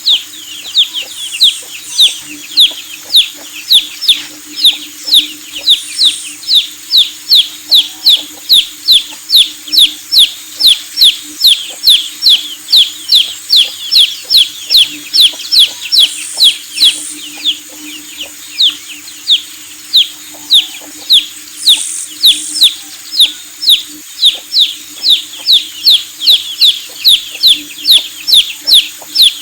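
Chicks peeping: a fast, unbroken run of loud falling cheeps, about two a second, with a few higher cheeps from other chicks now and then, over a faint steady low hum.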